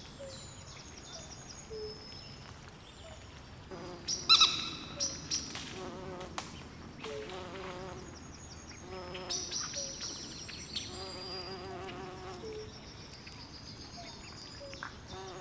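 Swamp ambience: frogs calling in short repeated trills, with high-pitched chirping throughout and a louder call about four seconds in.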